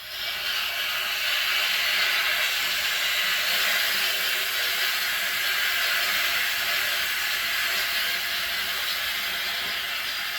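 Air hissing out of an electric water heater's temperature-and-pressure relief valve held open, a loud steady hiss that eases a little near the end. Trapped air is being bled from the newly filled tank so water can take its place.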